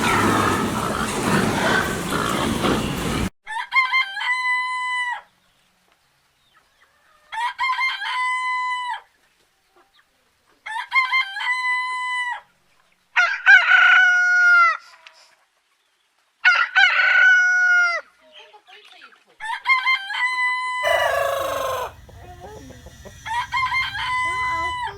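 Rooster crowing over and over, each crow a held call of a second and a half or so that falls off at the end, with a few seconds between crows. A noisy stretch comes before the crows, and near the end a noisier background comes in with one more crow.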